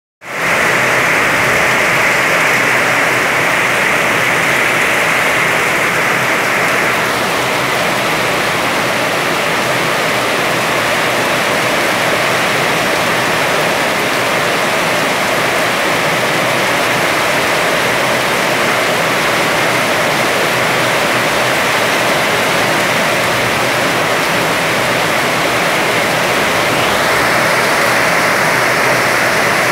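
Heavy rain pouring down, a loud, steady, even hiss of falling water.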